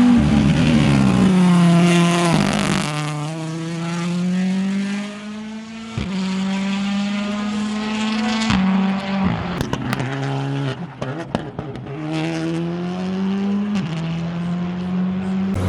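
Rally car engine running hard through a series of gear changes, its pitch falling and stepping at each shift. Midway there is a rapid burst of sharp pops and bangs.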